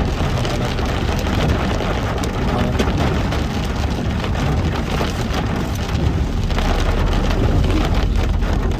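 Heavy rain pattering densely on a moving car, over a steady low rumble of the car's engine and tyres on the wet road.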